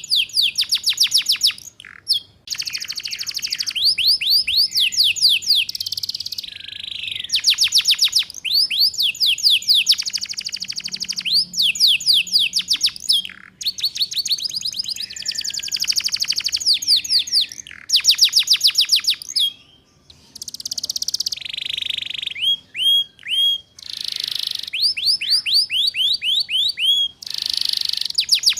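Domestic canary singing rapid trills: fast runs of high, falling whistled notes in phrases of one to a few seconds, with short gaps between. This is the fast 'ngeriwik' trill, used as a lure and master song for young canaries to learn.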